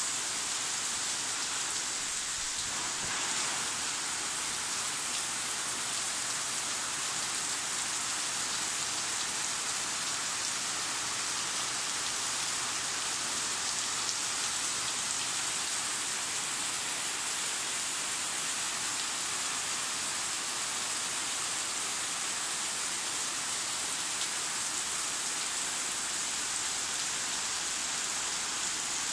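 Tropical rain falling steadily on rainforest foliage and ground: an even, unbroken hiss of drops on leaves.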